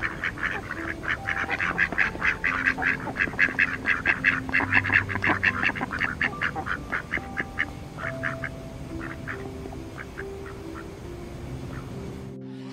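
Mallard ducks quacking in a fast run of short calls, several a second. The calls are densest for the first several seconds, then thin out and stop shortly before the end.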